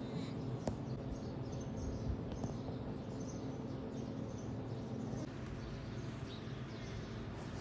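Outdoor ambience of small birds chirping now and then over a steady low hum, with a single click about a second in.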